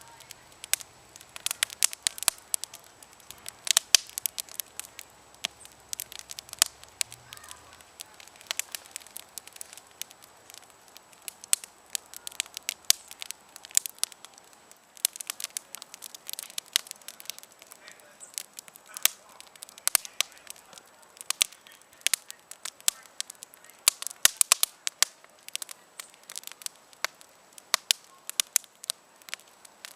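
Campfire crackling: an irregular run of sharp snaps and pops, some bunched in quick clusters.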